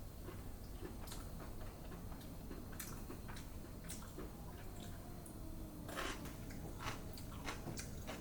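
Scattered faint clicks and light taps, with a denser cluster about six seconds in, over a low steady background hum.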